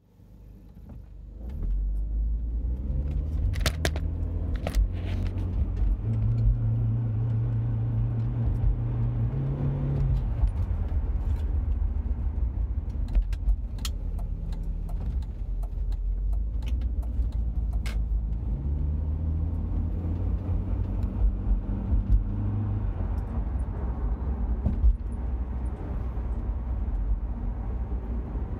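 Audi A4 B6's 1.8-litre turbocharged four-cylinder engine heard from inside the cabin under acceleration. The engine note climbs, holds and steps twice, once about two seconds in and again past the middle. The owner blames a jerking motion with the revs bouncing between 1,800 and 2,500 rpm. A few sharp clicks and rattles come from the cabin.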